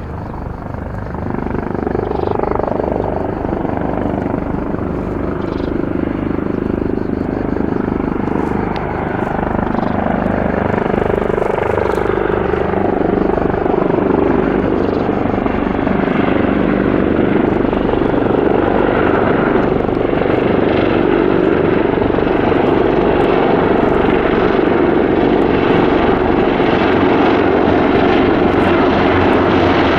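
Airbus H225M Caracal helicopter with its twin turboshaft engines and rotor running, growing louder over the first few seconds and then holding steady, with a rapid rotor beat underneath.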